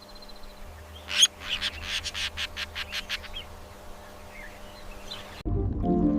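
Budgerigar chirping: one sharp chirp, then a fast run of short chirps for about two seconds, and a few faint chirps after. Soft music cuts in near the end.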